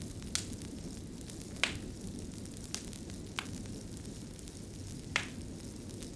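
Fire crackling: a steady low rumble with about five sharp, irregularly spaced pops.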